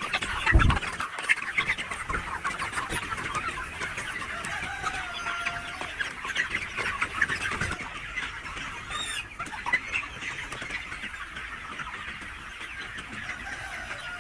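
A flock of chickens calling, many short high cheeps and clucks overlapping throughout, with a single low thump about half a second in.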